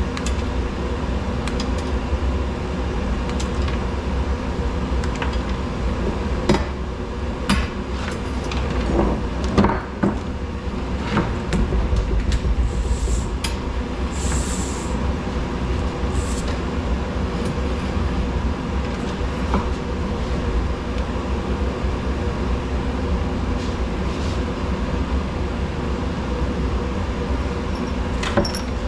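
A steady mechanical hum and rumble, with scattered clicks and knocks of scrap wire and metal being handled, most of them between about 6 and 12 seconds in.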